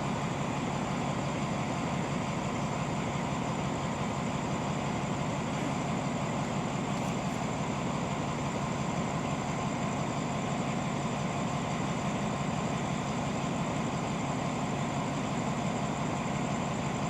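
Diesel train idling at a station platform: a steady engine hum that holds an even level throughout.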